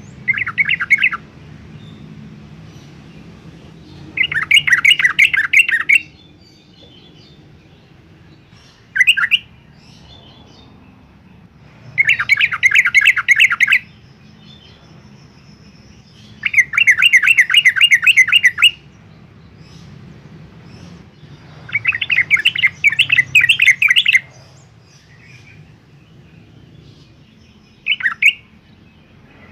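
Yellow-vented bulbul singing: loud, rapid bubbly warbled phrases of about two seconds, repeated every four to five seconds, with a few short single notes in between.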